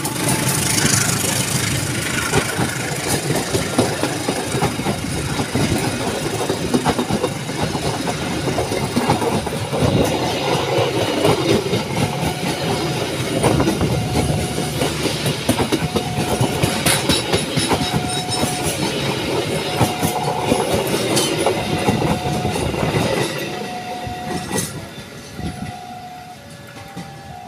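A train passing at speed, its wheels clattering over the rail joints, then fading away near the end. From about halfway, a level-crossing warning alarm beeps in a steady repeating tone, alternating between two pitches near the end.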